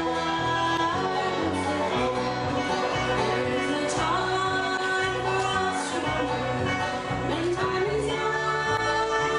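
Acoustic bluegrass band playing a song live: fiddle, guitar and upright double bass, with held, gliding melody notes over a steady walking bass line.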